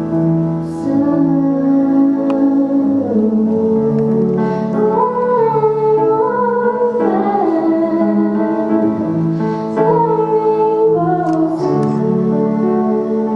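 A woman singing a song with piano accompaniment; the voice carries the melody over sustained piano chords.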